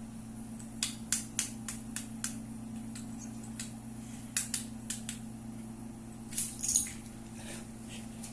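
Dominoes toppling in a chain: a run of light sharp clicks about three a second, then scattered clicks and a louder clatter near the end, over a steady low hum.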